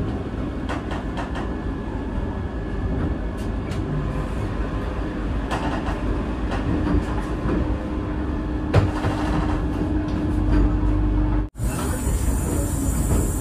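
Vande Bharat Express electric train running: a steady rumble with scattered clicks and a faint steady hum. It drops out suddenly for an instant near the end, then goes on with a brighter hiss.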